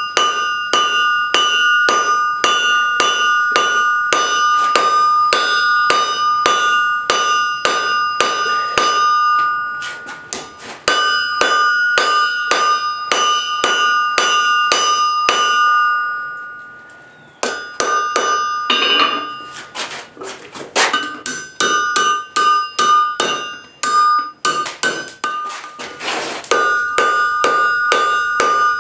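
Blacksmith's hammer striking steel on an anvil in a steady rhythm of about two to three blows a second, the anvil ringing after each blow, with brief pauses about ten seconds in and again around sixteen seconds.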